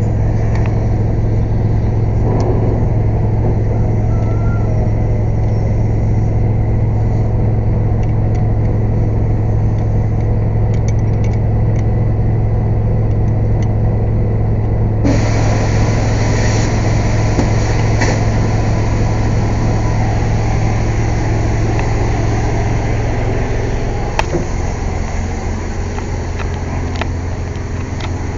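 Engine-driven air compressor running with a loud, steady low drone. About halfway through a hiss joins it, and near the end the drone drops lower in pitch and eases off a little.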